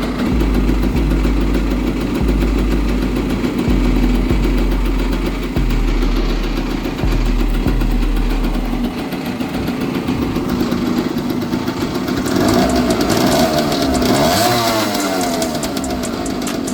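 Motorcycle engine running steadily, with its pitch rising and falling in a couple of sweeps toward the end.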